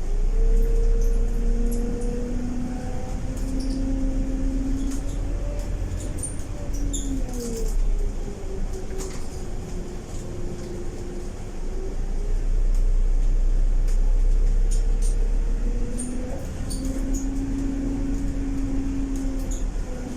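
Cabin sound of a Scania K230UB double-decker bus under way, with its ZF 6HP504C automatic gearbox: a deep drivetrain rumble and a pitched engine-and-transmission whine. The whine falls away about a third of the way in as the bus eases off, then picks up and holds again in the second half, over light interior rattles.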